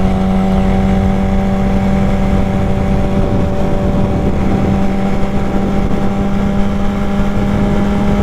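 Motorcycle engine running at steady revs while cruising, one even, unchanging note, with wind rushing over the rider's microphone.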